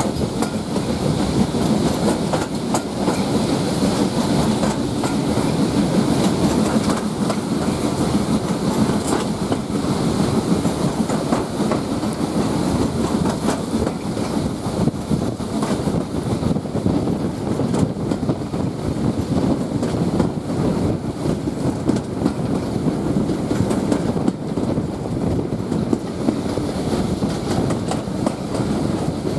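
Passenger carriage rolling along at speed behind a steam locomotive: a steady rumble of wheels on rail with clickety-clack over the rail joints and rushing air at an open window.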